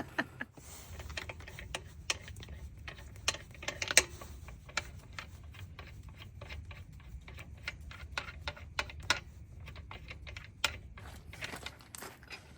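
Irregular clicks and light knocks of hands and tools working on a truck's air box, over a low steady rumble.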